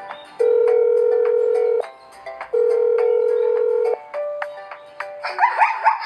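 Two long, steady electronic beeps like a telephone tone, each lasting about a second and a half. About five seconds in, a rapid run of short yelping animal calls starts.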